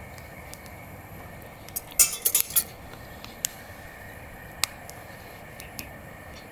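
Metal camp cookware and utensils clinking: a quick cluster of sharp clinks about two seconds in, then a few single ticks.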